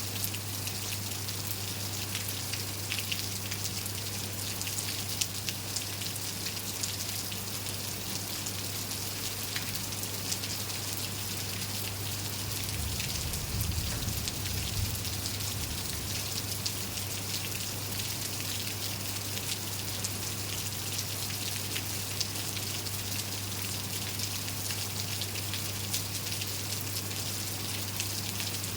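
Steady rain falling on surfaces, with many individual drops ticking over an even hiss. A steady low hum runs underneath, and a brief low rumble comes about halfway through.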